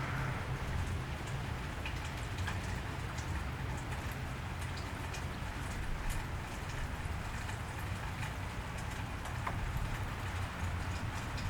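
Steady rain falling on a wet street, with scattered drops ticking close by over a low, steady rumble.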